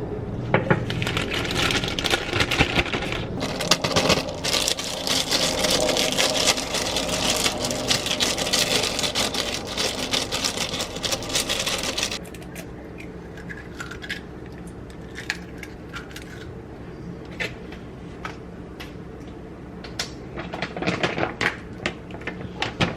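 Kitchen food-prep handling noise: a dense, rattling clatter for about twelve seconds that stops abruptly, followed by quieter scattered clicks and knocks.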